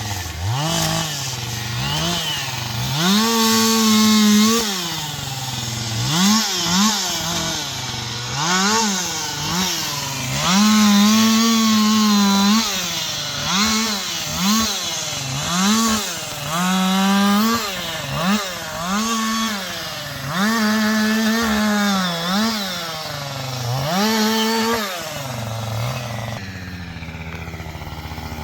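Chainsaw cutting black walnut, its engine revving up and down over and over and held at full throttle for a second or two at a time. Near the end it settles to a steadier, lower engine sound.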